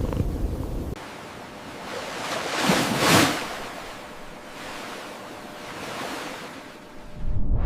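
A cat purring for about a second, then waves washing in. The wash swells and fades twice.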